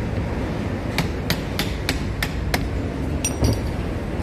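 Light hammer taps on a Prestolite tractor starter motor being dismantled: about six sharp taps roughly a third of a second apart, then a ringing metallic clink and a knock a little after three seconds in.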